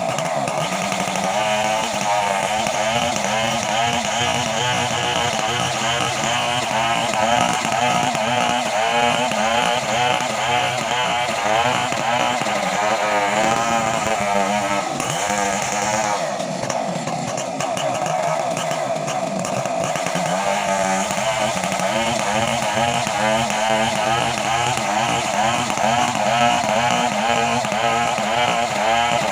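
Chainsaw engine running steadily at high revs, its pitch wavering up and down throughout, easing briefly a little past halfway.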